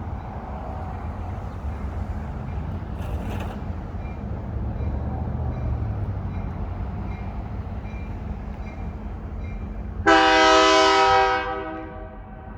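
Train running with a steady low rumble, then one loud locomotive horn blast near the end, lasting about a second and a half before it fades.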